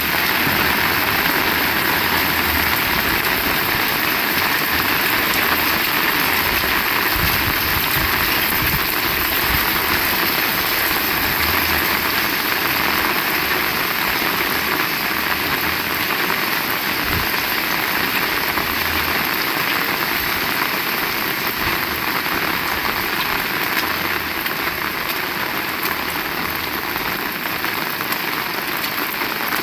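Heavy rain falling steadily in a dense hiss, with irregular low rumbles of wind underneath.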